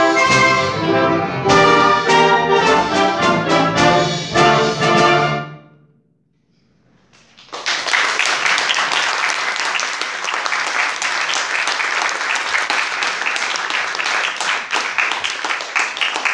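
A student orchestra with brass and strings plays the final bars of a piece, stopping about five and a half seconds in. After a moment of silence the audience breaks into steady applause.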